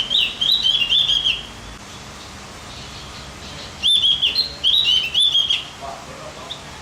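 Javan opior (Javan grey-throated white-eye) singing: two quick phrases of high, rapidly warbled notes, the first at the start and the second about four seconds in, each under two seconds long.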